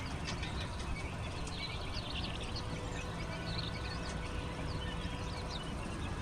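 Baby chicks and quail chicks peeping: many short, high cheeps overlapping, busiest in the first half, over a steady low rumble.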